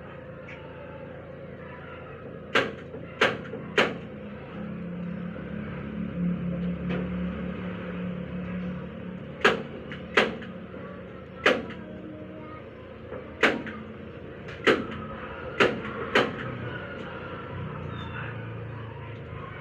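About ten sharp, single clacks in small groups of two or three, from hand work on the upholstery. A low rumble swells and fades in the middle, like a passing vehicle.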